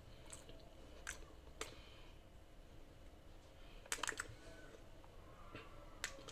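Quiet chewing with soft mouth clicks and lip smacks, a handful of short ticks spread out, the sharpest pair about four seconds in: a taste of the meatball mixture being chewed.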